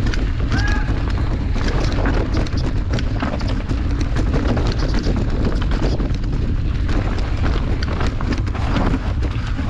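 Wind buffeting an action camera's microphone during a mountain bike ride on a dirt trail, with tyre noise and the bike rattling and knocking over bumps throughout.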